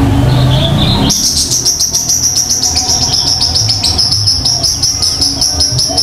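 A low rumble cuts off about a second in. Then a bird sings a high, rapid trill at one steady pitch, about eight notes a second, for about five seconds.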